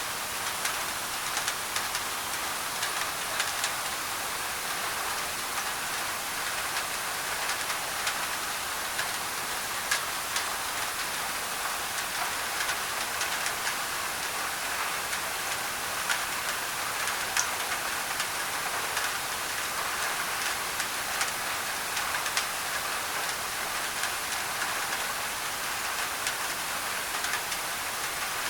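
Steady rain on a thin tin roof, with scattered sharp drop ticks over a hiss of mixed-in white noise.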